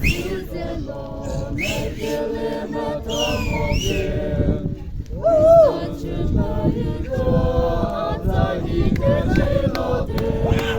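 A group of voices singing together in held, wavering notes over background crowd noise. A high sliding note comes about three seconds in, and a loud note swoops up and down a little past halfway.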